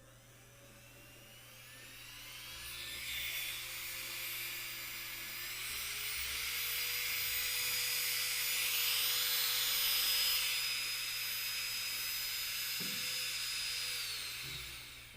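Strong 107 II manicure machine handpiece motor spinning up in two steps to a steady high-speed whine, then winding down to a stop near the end.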